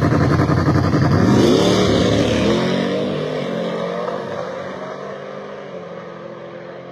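Racing vehicle engine accelerating hard down a drag strip. Its pitch climbs and then drops off, and the sound fades steadily as it pulls away.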